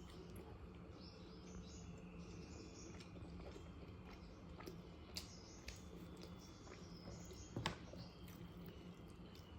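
Faint close-up eating sounds: soft chewing and small wet mouth clicks, with one sharper click about three-quarters of the way through, over a low steady hum.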